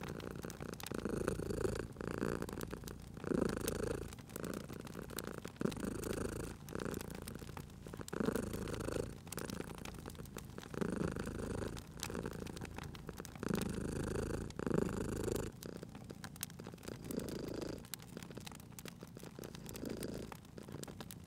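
Domestic cat purring, the purr swelling and easing about once a second with its breathing and growing fainter about three-quarters of the way through. A wood fire crackles and pops with scattered sharp snaps.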